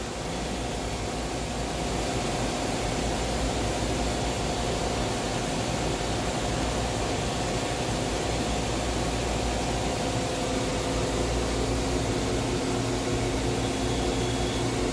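Mazak VTC-16A vertical machining center running with a steady machine hum, before its spindle is run up. A further steady tone joins about ten seconds in.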